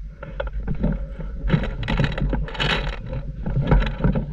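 Irregular clicks and rattles over a steady low rumble, with a few longer rustling hisses about a second and a half and two and a half seconds in.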